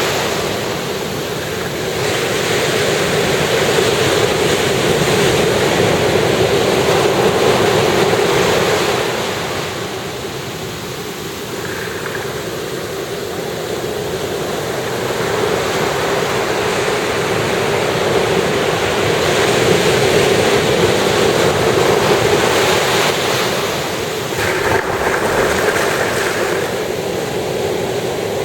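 Ocean surf breaking on a beach, a continuous wash that swells and fades as successive waves come in and draw back.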